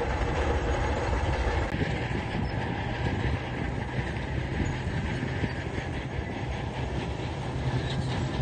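Heavy tracked earthmoving machine at work: a diesel engine running steadily under a low rumble, with a continuous clatter of steel crawler tracks.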